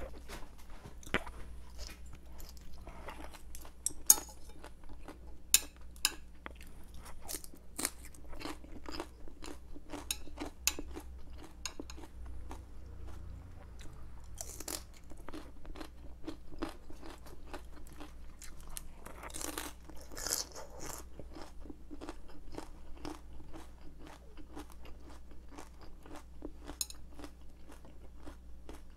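Close-miked chewing of crisp vegetables: a dense run of crunches and wet mouth clicks, with a longer, louder crunchy bite about halfway in and another about two-thirds of the way in.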